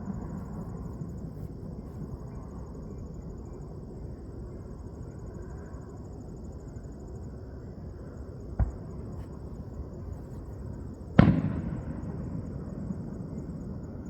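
Fireworks shells bursting: a small sharp pop about eight and a half seconds in, then a loud boom about eleven seconds in that rumbles away over a couple of seconds. Crickets chirp steadily throughout.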